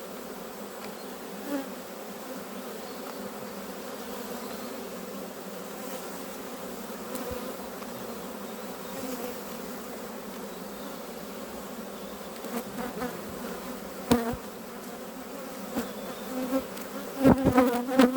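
Honeybees buzzing steadily around an open hive, a continuous hum from many wings. A few sharp knocks break in about two-thirds of the way through and again near the end.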